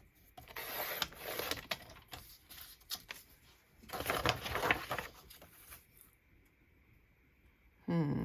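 A sheet of scrapbook paper being cut down to size: two noisy passes of about two seconds each, with small clicks and paper handling.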